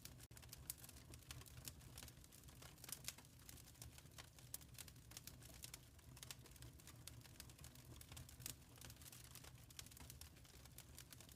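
Wood fire crackling softly: many small, irregular pops and snaps over a steady low rumble.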